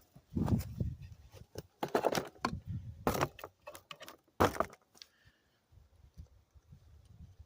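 Small chrome engine-lid latch cover and its metal tabs clicking and clinking as it is handled and pushed into place on the engine lid. There is a run of short knocks and clicks, the sharpest about four and a half seconds in, then the sounds stop.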